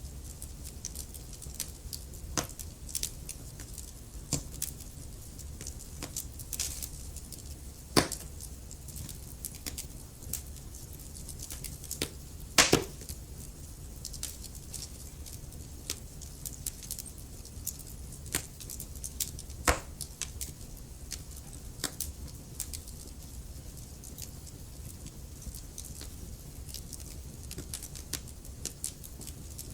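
Wood fire crackling: frequent small sharp pops and clicks over a steady low rumble, with a few much louder pops spread through.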